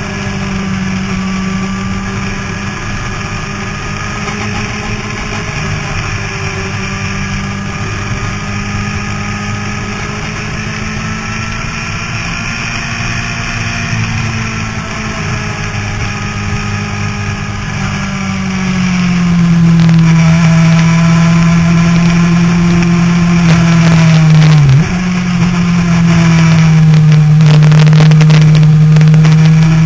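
Motorcycle engine running at a steady pace on a racetrack, heard from an onboard camera. About two-thirds of the way through it gets louder and its note drops slightly. A few seconds later the note dips briefly and then holds steady again.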